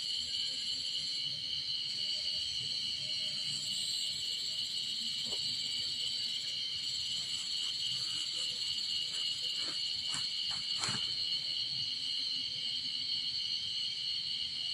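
A steady chorus of insects, crickets or cicadas, shrilling high and unbroken. A few light clicks or knocks come about ten seconds in.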